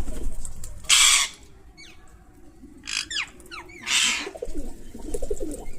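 Pet parrots calling: two loud, harsh screeches, one about a second in and one about four seconds in, with quick falling chirps between them and low chattering near the end.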